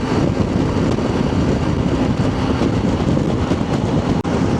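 Motorcycle riding noise, a Triumph Tiger 800, heard as a loud, steady rush of wind and road noise on a helmet-mounted camera mic. It cuts out briefly twice near the end.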